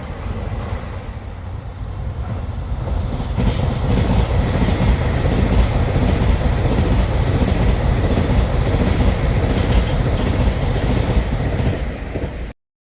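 Taiwan Railway train running through a station, wheels clattering over the rail joints; it grows louder about three and a half seconds in and the sound cuts off abruptly near the end.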